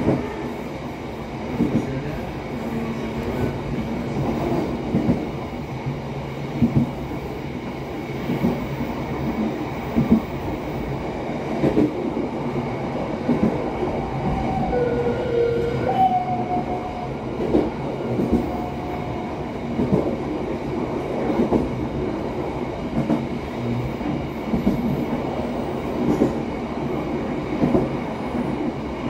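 Passenger train running along the track, heard from the rear of the last carriage: a steady rumble with sharp wheel knocks over the rail joints every second or two.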